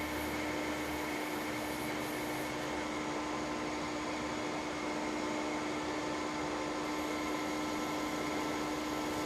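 Milling machine spindle running steadily with an end mill cutting a relief counterbore in a fixture, giving an even machine hum with a steady tone.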